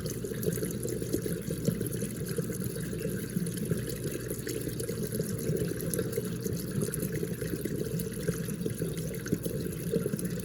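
Whirlpool dishwasher draining in its diagnostic cycle: the drain pump runs with a steady rush of water. It is draining properly, the sign of a clear pump filter.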